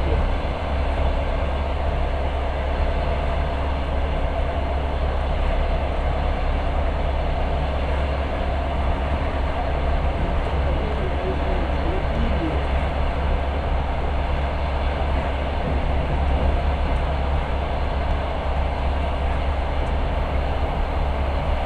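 Passenger train carriage running at speed, heard from inside at the window: a steady rumble with a heavy low drone.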